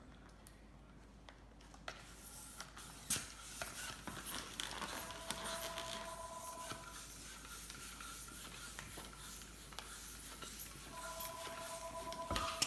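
A hand balloon pump pushing air into a long twisting balloon: an airy hiss with small clicks from about two seconds in, and a thin whistling tone twice.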